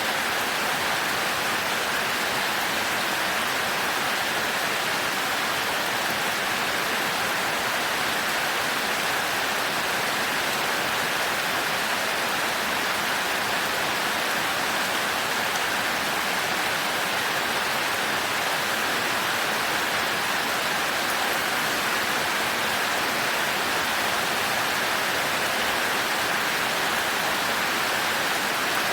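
Heavy rain falling steadily, an even hiss with no thunder and no change in level.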